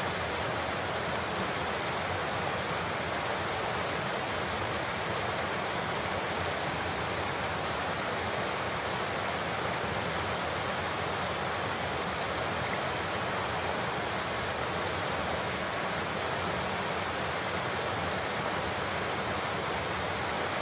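Large waterfall: water pouring and crashing in a steady, unbroken rush.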